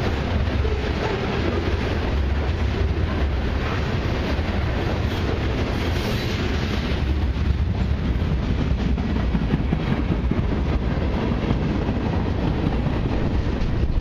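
Freight cars of a long freight train rolling past close by, tank cars and then centerbeam flatcars: a steady rumble of steel wheels on the rails, with sharper wheel clicks in the second half.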